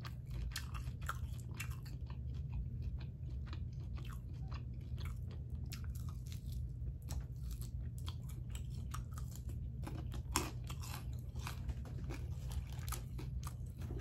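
Close-miked chewing of Wingstop chicken wings: many small wet clicks and crunches throughout, with a louder bite about ten seconds in.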